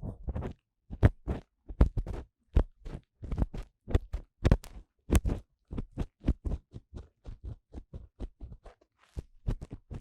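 Ear cleaning into the silicone ear of a 3Dio binaural microphone: an ear-cleaning tool scraping and tapping in the ear canal, heard as many short, irregular scratches and clicks, several a second.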